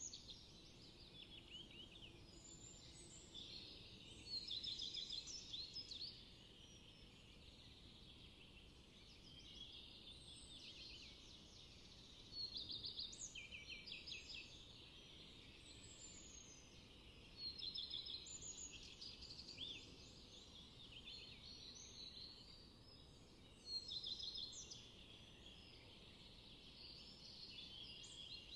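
Songbirds singing outdoors. Short song phrases with quick trills come every few seconds over a faint background hiss.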